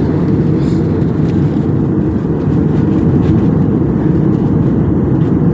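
Steady cabin noise of an airliner in flight: an even, deep rush of engine and airflow noise heard from inside the passenger cabin.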